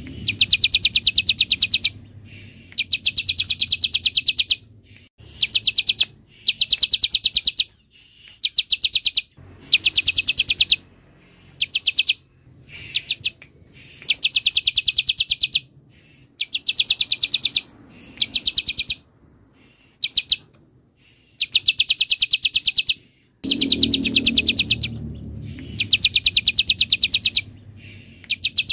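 Bar-winged prinia (ciblek) song: repeated bursts of a rapid, high, evenly pulsed trill, each one to two seconds long, separated by short pauses, over a faint low rumble.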